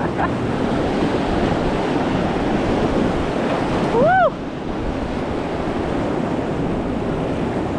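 River rapids rushing steadily, with wind buffeting the microphone. About four seconds in, a short pitched call rises and falls once.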